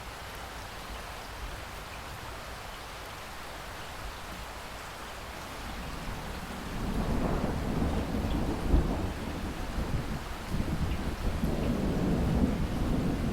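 Steady heavy rain, joined about six seconds in by a long low rumble of thunder that rolls on with a loud crack-like peak a couple of seconds later.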